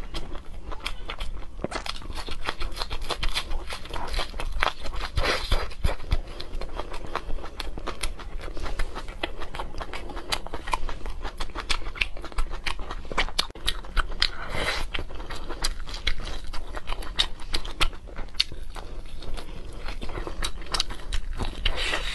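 Close-miked chewing and biting: a person crunching a raw green onion stalk, then biting and chewing pork ribs. The sound is a dense run of small sharp wet clicks and crunches.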